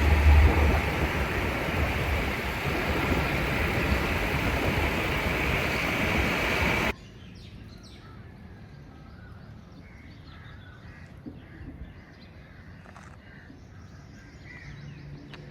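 Loud, steady street noise of a busy city road. It cuts off abruptly about seven seconds in, leaving quiet outdoor background with scattered short bird calls.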